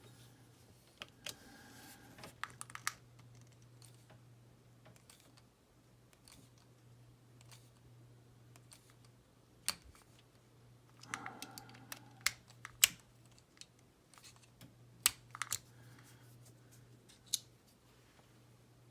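Scattered light clicks and taps of a small hand screwdriver and small model-kit parts being handled on a tabletop, with a few sharper clicks in the second half. A steady low hum runs underneath.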